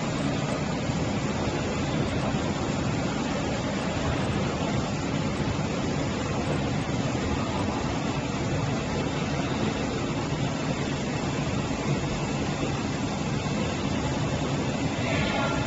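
Steady running noise of factory machinery, an even hum and rush with no clear rhythm.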